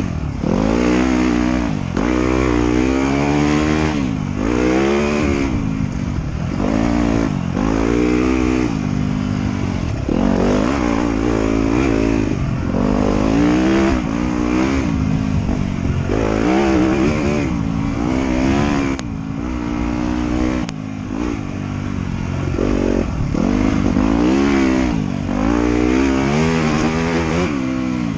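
Dirt bike engine ridden off-road, the throttle opening and closing over and over so the pitch rises and falls every second or two.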